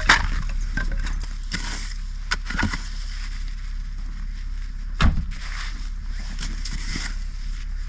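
Firewood being handled and feet moving in snow: scattered crunches and knocks, with sharper knocks just after the start and about five seconds in, over a steady low rumble.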